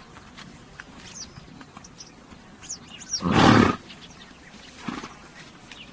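A horse gives one loud, noisy snort through its nostrils about three seconds in, then a short, fainter one near five seconds. Small birds chirp faintly in the first half.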